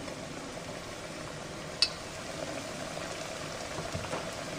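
Panko-breaded chicken cutlets frying in hot oil, a steady sizzling hiss. One brief click a little under two seconds in.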